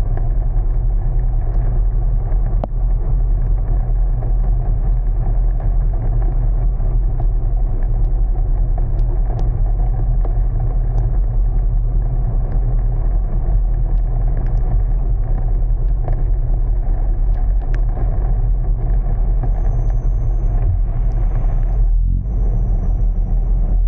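A car driving in heavy rain: a steady low rumble of engine and tyres, with scattered small ticks over it.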